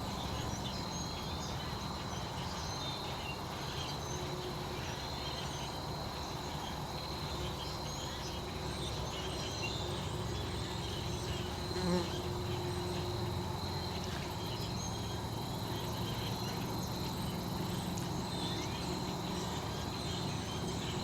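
Outdoor insect chorus, crickets among them: a steady, unbroken high-pitched trill over a low steady hum.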